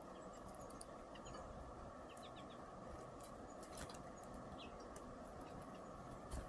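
Small birds at a feeder giving faint, short high chirps, with scattered sharp clicks, over a steady hiss.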